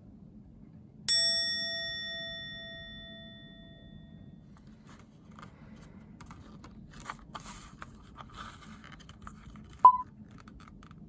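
A single bright metallic ding about a second in that rings on and fades over about three seconds, followed by faint scattered clicks and rustling and a short high beep near the end.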